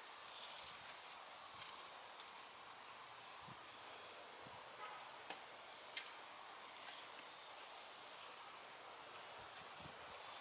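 Insects trilling steadily in a high, finely pulsed buzz, with a few faint scattered clicks and soft taps.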